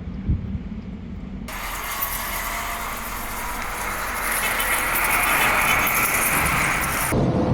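A passing road vehicle makes a steady rushing noise that grows louder. It begins abruptly about a second and a half in and cuts off abruptly near the end, with a low rumble before and after.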